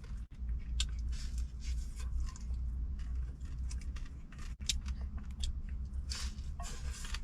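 Crunchy chewing of crispy clay-pot rice crust (guoba): a run of irregular crisp crunches, over a steady low hum.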